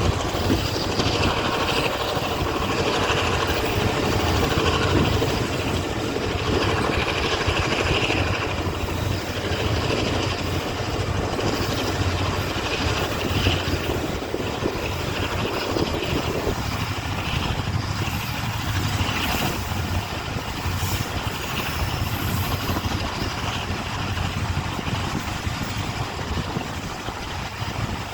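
Diesel-hauled passenger train running on the line: a steady rumble and rattle of the coaches' wheels on the rails, with no single standout event.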